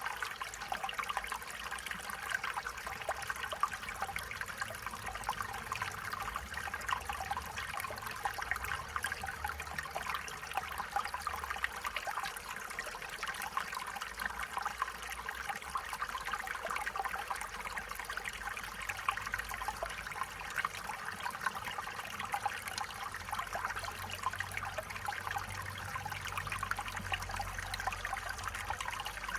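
Stream water running steadily over rocks, a continuous trickling and babbling.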